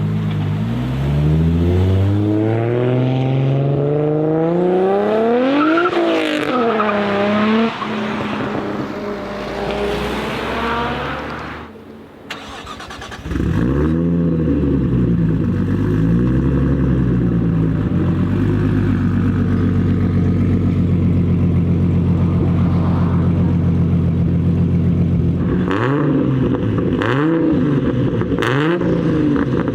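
Turbocharged Nissan RB25DET straight-six in a modified Skyline R33 accelerating, its revs climbing steadily for about six seconds. After a short drop it settles into a steady idle with throttle blips, and revs sharply again near the end with a few sharp pops.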